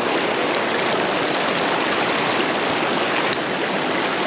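Steady rush of flowing stream water, with a single short click about three seconds in.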